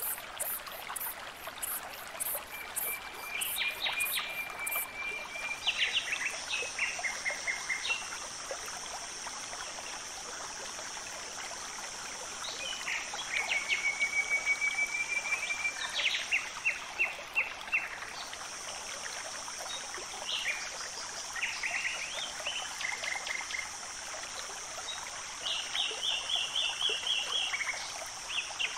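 Outdoor nature ambience: small birds chirping and trilling in short repeated phrases over a steady high-pitched hiss, with a run of rapid high ticks in the first few seconds.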